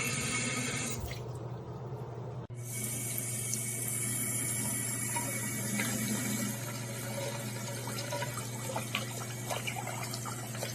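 Water running from a single-lever waterfall basin mixer tap into the sink. The flow eases off about a second in, then comes back fuller about two and a half seconds in and runs steadily.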